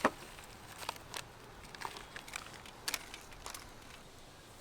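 Scattered light crackles and clicks from cooking over a campfire, a few each second over a faint hiss.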